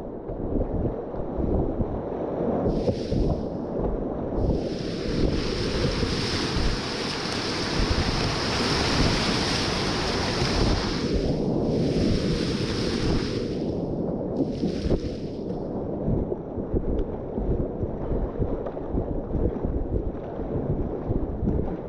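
Whitewater rapids rushing, with wind buffeting the microphone. A louder hiss of splashing water swells about four seconds in and fades back after about ten seconds, with shorter swells just before and after it.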